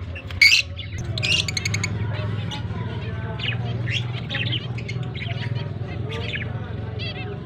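Lovebirds chirping and chattering: a sharp loud call about half a second in, a quick rasping chatter, then a run of short chirps, over a steady low hum.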